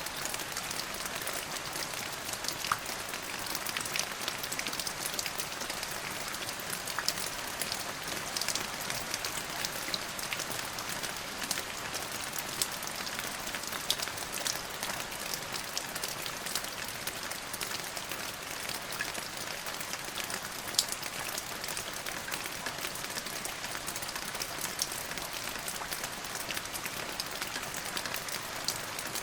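Steady rain falling, an even hiss with scattered sharp drop ticks on a hard surface.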